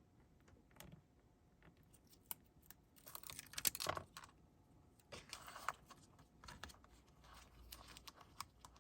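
Paper card stock and small craft tools being handled on a table: scattered light clicks, taps and rustles, with a busier burst of paper rustling about three to four seconds in.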